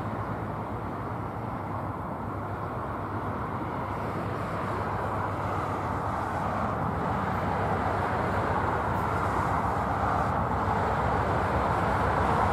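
Amtrak passenger train led by two GE P42 Genesis diesel locomotives approaching: a steady rumble of engines and wheels that grows gradually louder.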